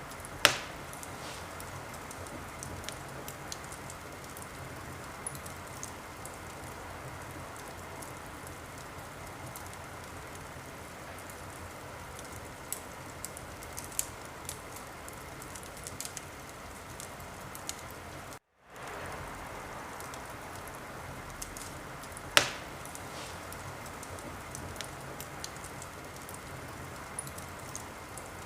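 Wood fire burning in a fireplace: a steady crackle and hiss with scattered small pops and two sharp, loud pops, one just after the start and one about three-quarters of the way through. The sound drops out completely for a moment about two-thirds of the way through.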